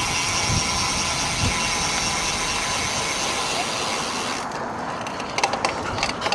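Road bike's rear freehub ratcheting in a rapid steady buzz as the rider coasts, stopping about four and a half seconds in, followed by a few sharp clicks.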